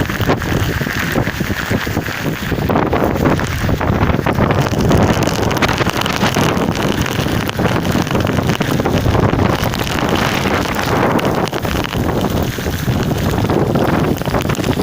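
Strong storm wind, gusting at around 30–35 m/s, buffeting the microphone: a loud, continuous rumble and roar that rises and falls with the gusts.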